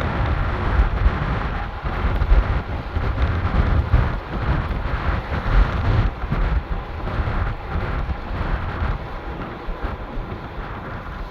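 Wind buffeting the microphone in gusts over the rumble of a moving car.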